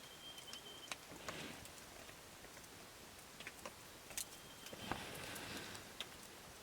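Campfire burning with scattered sharp crackles and pops at irregular intervals, a short high thin tone sounding twice.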